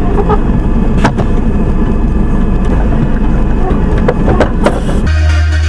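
Car engine and road noise, a steady low rumble with a few short knocks, cutting off about five seconds in to music with a steady bass.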